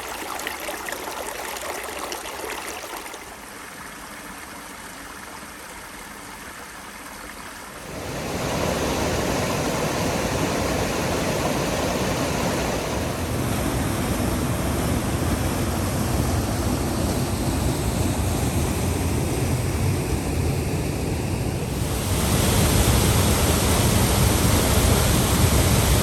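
Rushing water, a steady wash of noise that jumps in loudness several times: quieter about three seconds in, much fuller and louder about eight seconds in, and louder again near the end.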